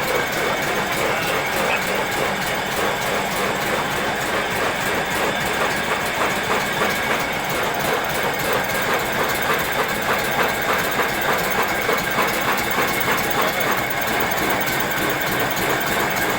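Old Kubota tractor's diesel engine running steadily with an even, rapid pulsing chug.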